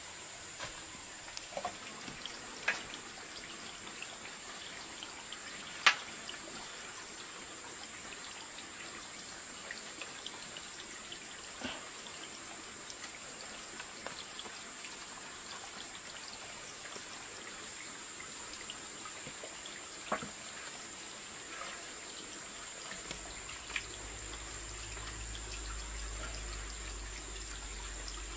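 Water trickling steadily, with a constant high-pitched whine above it and a few sharp clicks or knocks, the loudest about six seconds in. A low hum comes in near the end.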